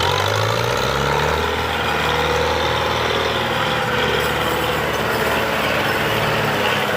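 Belarus tractor's diesel engine running loud and steady while pulling a full load. Its pitch rises a little over the first second or so, then holds.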